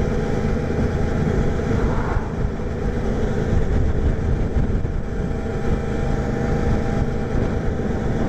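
Motorcycle engine running steadily at highway cruising speed, mixed with wind and road noise rushing past the helmet microphone.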